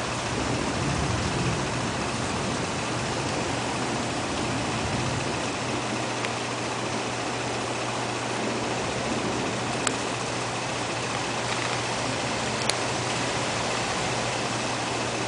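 Steady rain falling in a thunderstorm, an even wash of noise, with a couple of sharp ticks in the second half.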